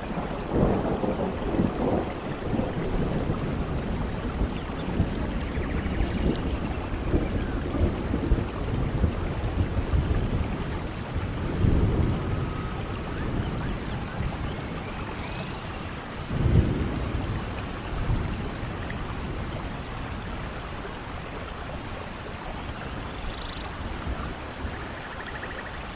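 Steady rain with low rolls of thunder, the loudest about two-thirds of the way through; the rain eases a little toward the end.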